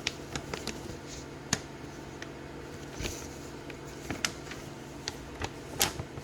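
Plastic model-kit parts and sprues handled in their box: scattered sharp clicks and light rattles, a few seconds apart, over a low steady hum.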